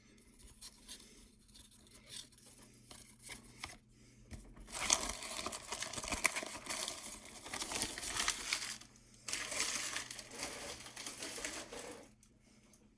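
Plastic hockey-card pack wrapper being crinkled and torn open by hand. After a few quiet seconds of light handling, a run of crackling and tearing sets in about five seconds in, pauses briefly, then goes on for a few more seconds.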